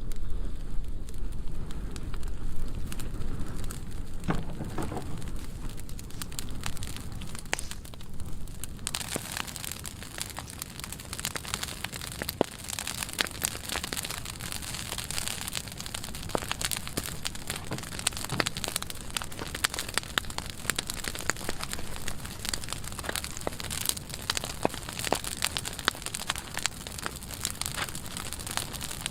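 Freshly lit burn pile of dry pruning wood crackling and popping as the fire takes hold. About nine seconds in the crackling suddenly becomes denser and brighter.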